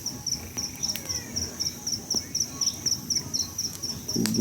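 Crickets chirping at night in a steady high-pitched rhythm, about four chirps a second.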